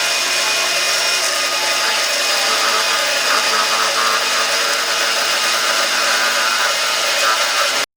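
An electric power tool running steadily on wood, a dense whirring noise with a faint high whine, cut off abruptly just before the end.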